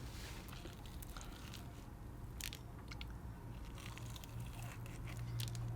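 Biting into and chewing crispy cereal-coated fried chicken, with scattered small crunches and crackles.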